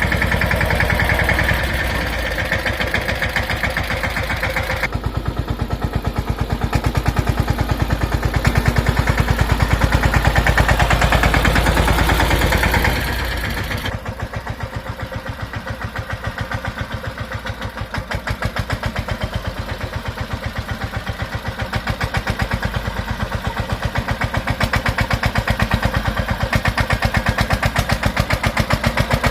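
Mahindra Yuvraj 215 tractor's single-cylinder diesel engine chugging with an even, rapid beat. It runs louder through the middle, drops back abruptly about halfway, then slowly builds again.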